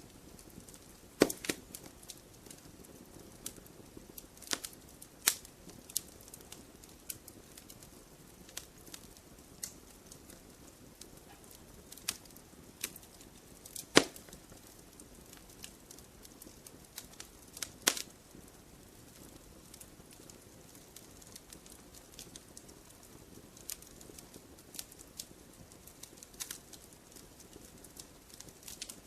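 Wood fire crackling: irregular sharp pops and snaps, a few louder ones standing out, over a faint low rustle of burning.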